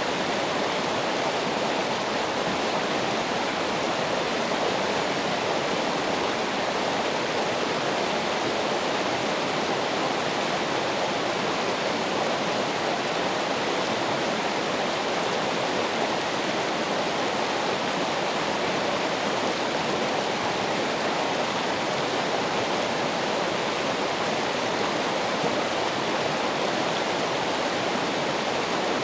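Flowing water rushing steadily and without a break.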